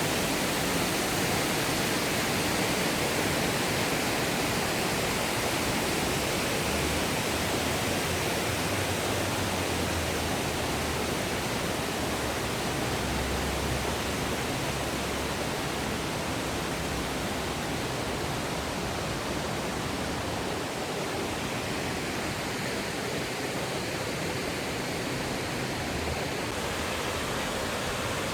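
Steady rush of a man-made waterfall pouring over rocks.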